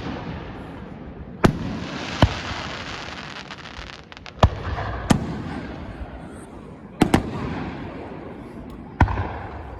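Aerial fireworks going off in a series of sharp booms, about seven, including a quick double bang about seven seconds in. Each boom trails off, and a crackling spray follows the early shells.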